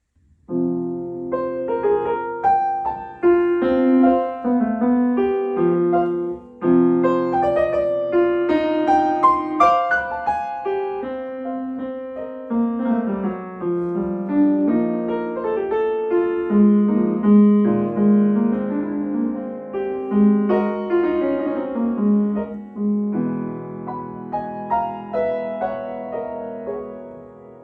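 Solo piano playing a short contemporary pastoral miniature: ringing chords with brief higher figures meant to evoke birdsong, starting about half a second in and fading near the end.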